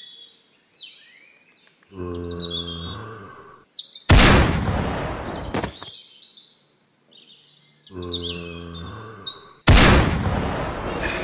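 Birds chirping, then twice over a low, drawn-out zombie groan, each followed about two seconds later by a loud rifle shot with a long echoing tail from a scoped sniper rifle.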